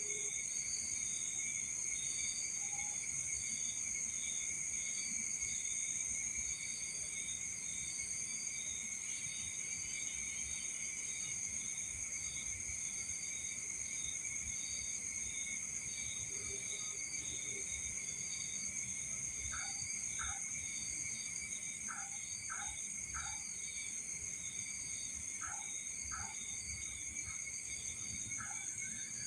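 Night insect chorus of crickets: several steady high-pitched trills, one pulsing about twice a second, with a few short faint chirps in the second half.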